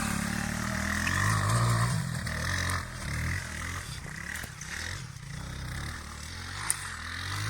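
Motorcycle engine revving up and down repeatedly under load as the rider tries to ride up a steep, bumpy slope, a climb that fails. A single sharp click sounds about two-thirds of the way through.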